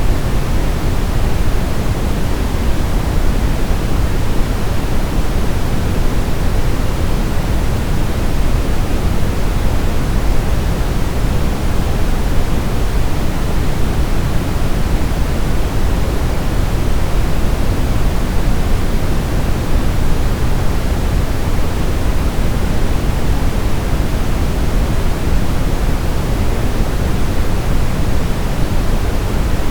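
Steady brown noise: an even, deep rushing hiss that is strongest in the lows and unchanging throughout.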